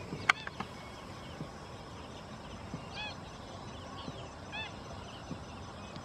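A sharp click just after the start, then two short bird calls about a second and a half apart, each rising then falling in pitch, over faint chirping of small birds.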